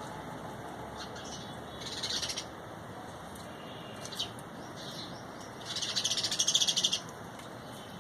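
Small birds calling: a short burst of high chattering about two seconds in, a single sharp note around four seconds, and a louder run of rapid, high repeated notes lasting about a second near the end, over a steady background hiss.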